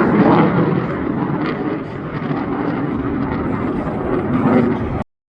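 Royal Australian Air Force F-35A Lightning II jet engine roaring in a vertical departure climb, a loud steady rush of jet noise that eases a little partway through. It cuts off abruptly about five seconds in.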